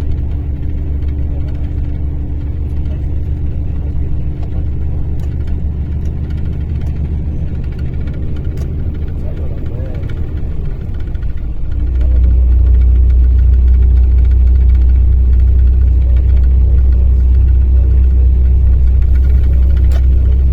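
Mercedes-Benz O-500RSD coach's inline-six diesel engine running at a steady speed with a deep, even hum; about twelve seconds in it gets louder and stays steady.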